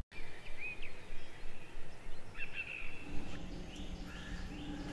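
Scattered bird chirps over a faint background hiss; about three seconds in, a low steady hum joins in under them.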